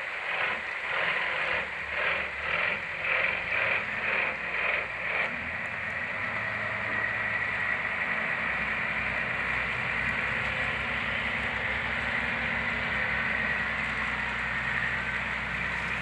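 High-speed passenger boat's engines running as it pulls away from the pier. For about the first five seconds the sound pulses about twice a second, then it settles into a steady drone with a held whine over a low hum.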